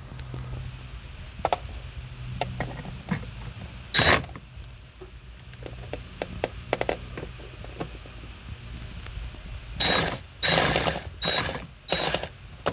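Cordless impact gun with a quarter-inch socket on a bit extension backing out a bolt, run in short bursts with a ratcheting mechanical rattle. Four quick bursts near the end, with a single one earlier.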